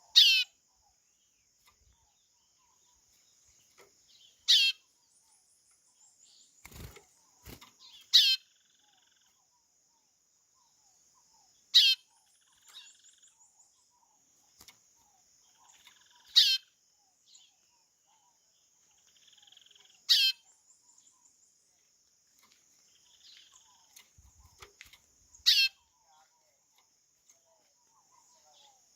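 White-bellied seedeater (chorão) calling: seven short, loud calls, each sweeping down in pitch, spaced about four seconds apart. A steady high insect buzz runs underneath, and two soft knocks come about seven seconds in.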